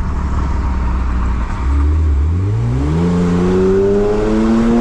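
Non-turbo BMW F10's engine through a full stainless-steel aftermarket exhaust with 4-inch carbon tips, heard from outside the car: a low steady running note that, about a second and a half in, turns into acceleration with the pitch climbing steadily.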